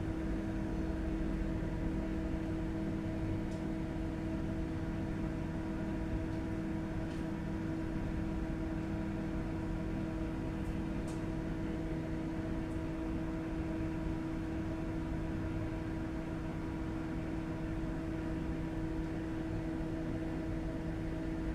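Steady machine hum, several held tones over a low rumble, with a few faint clicks.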